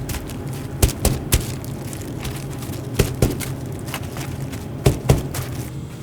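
Food-stall kitchen at work: a string of sharp knocks and clatter, a few a second apart, over a steady low hum.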